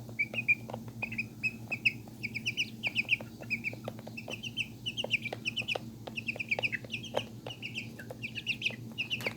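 Young chickens peeping: quick clusters of short, high cheeps throughout, with scattered sharp taps and a steady low hum underneath.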